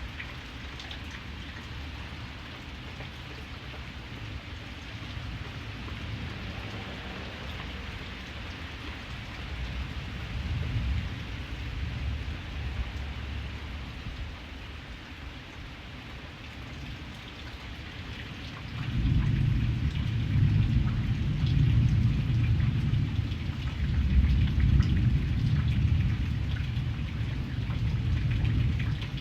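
Steady rain falling, with thunder rumbling low underneath; the rumble swells briefly partway through, then grows much louder about two-thirds of the way in and keeps rolling.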